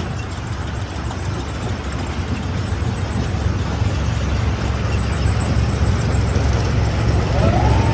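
Stone crusher machinery running with a steady low rumble that grows slightly louder, with a short rising whine near the end.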